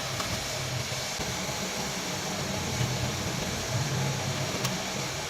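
Steady mechanical running noise with a low, unsteady hum under a hiss, and a single sharp click near the end.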